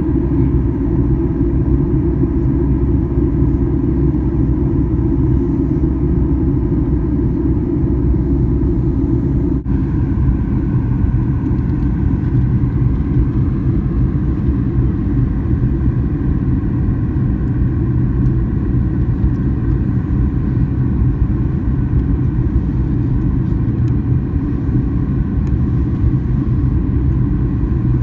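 Jet airliner engine and airflow noise heard from inside the cabin: a loud, steady low rumble with a faint steady whine above it. There is a momentary dropout about ten seconds in.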